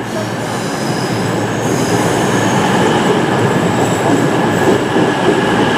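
CrossCountry Class 220 Voyager diesel-electric multiple unit running close by along the platform as it pulls into the station: underfloor diesel engines and wheels on the rails, with a faint high squeal joining about one and a half seconds in.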